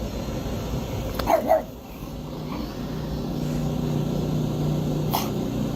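A dog barks once, a short sharp bark about a second and a half in, followed by a low steady hum for a few seconds.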